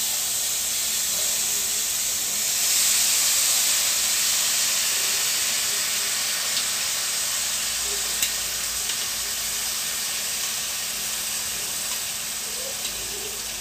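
Marinated beef slices sizzling as they go into hot oil with garlic and onion in a steel wok. The frying sizzle swells about three seconds in and slowly eases off, with a few light clicks over it.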